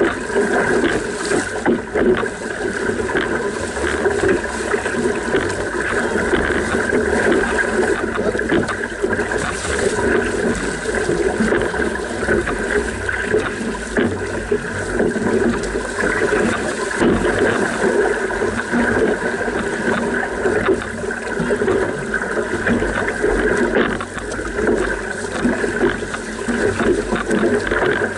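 Water rushing and splashing along the hull of a paddled outrigger racing canoe: a steady, unbroken wash.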